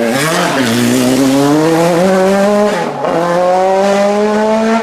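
Race car engine accelerating hard through the gears: its pitch climbs steadily, drops briefly at an upshift about three seconds in, then climbs again.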